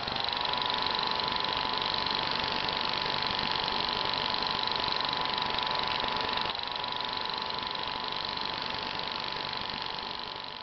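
A machine running steadily: a whine with hiss that holds one pitch, then drops slightly in pitch and loudness about six and a half seconds in.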